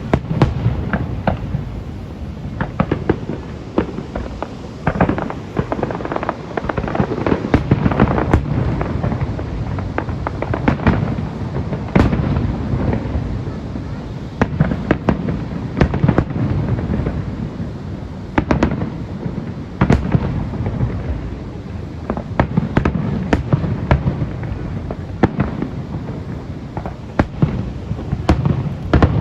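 Aerial fireworks display: a dense barrage of shells bursting in sharp bangs and crackles, several to the second at times, over a low rumble of booms.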